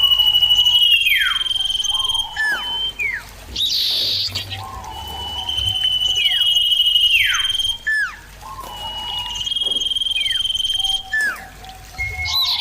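Common iora (cipoh) singing. Each phrase is a long, steady, high whistle held for about a second, then a falling slur and a few short down-sliding notes; the phrase comes three times.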